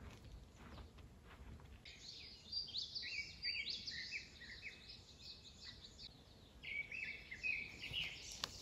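Songbird singing in woodland: after about two seconds a long, fast run of quick high chirps and twitters begins, with a brief lull near the middle, over a faint outdoor hush.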